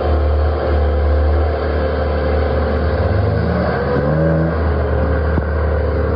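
Car engine running and revving, its pitch rising briefly about three and a half to four and a half seconds in.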